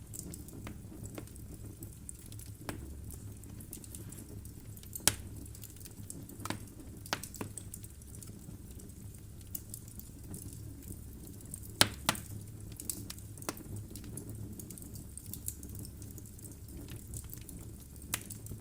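Wood fire burning in a fireplace: logs crackling with scattered sharp pops over a low steady rumble of the flames. The loudest pop comes about five seconds in, and two more come close together about twelve seconds in.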